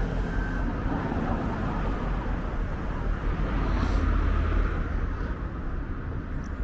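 Street traffic: a motor vehicle running close by over a steady low rumble of road noise, with one brief higher whoosh about four seconds in.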